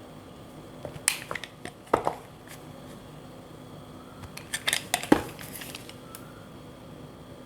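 A blade cutting through dry bar soap: crisp crunches and snaps in a few short clusters, the loudest a little after five seconds in.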